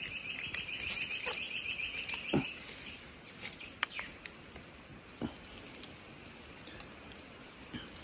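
A bird's rapid trill of repeated high chirps for the first two and a half seconds or so, followed by a few scattered sharp clicks and knocks.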